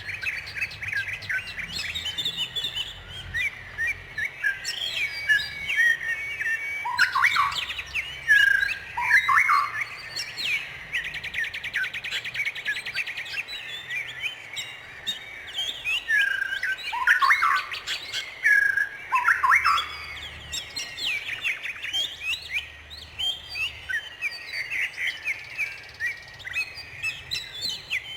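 Several songbirds chirping and singing at once: continuous overlapping high chirps and trills, with louder swooping calls around a quarter and two-thirds of the way through and a fast rattling trill near the middle.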